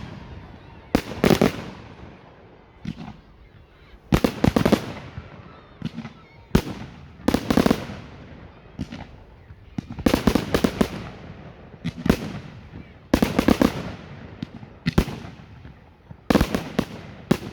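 Category 4 display fireworks bursting overhead: loud bangs, some single and some in quick clusters, every one to three seconds, each trailing off in a rumbling echo.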